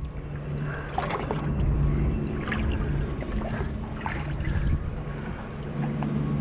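Water sloshing and trickling around a boat over a low rumble and a steady low hum, with a few light knocks or splashes.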